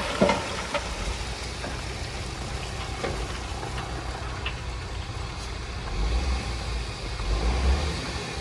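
Heavy diesel earthmoving machinery running steadily, with a couple of sharp metal knocks at the start. The deep engine rumble swells about six seconds in and again near the end.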